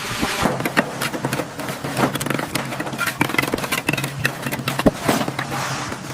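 Construction work noise: many irregular knocks and clicks over a steady machine hum.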